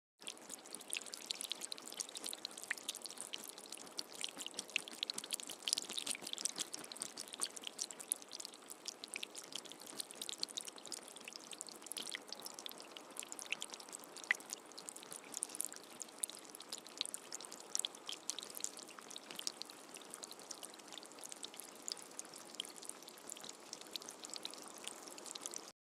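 Steady rain: an even hiss of falling water, thick with the fine patter of individual drops.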